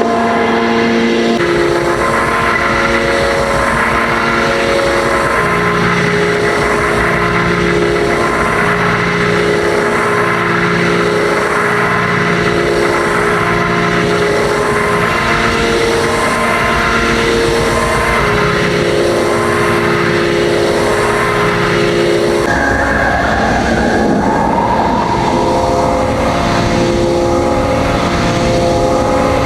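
Experimental electronic drone and noise music: several sustained, overlapping tones held over a dense, steady rumble. The mix changes texture about 22 seconds in.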